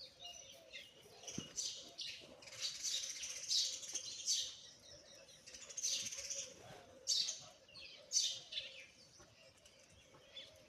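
Pigeons' wings flapping in repeated irregular bursts, with bird chirping mixed in.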